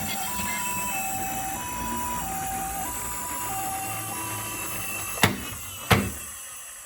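Toy ambulance's electronic two-tone siren, a Japanese-style hi-lo "pee-po" alternating about every half second, over a low rolling rumble. The siren stops after about four and a half seconds, and two sharp clacks follow about half a second apart.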